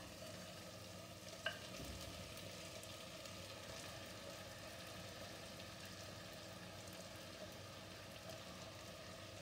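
Faint, steady sizzle of onions and tomatoes frying in a pan as spice-coated tuna chunks are laid in, with one small click about a second and a half in.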